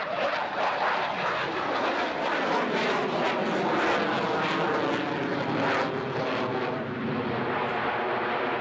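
Airplane flying past, its engine drone slowly falling in pitch as it goes by.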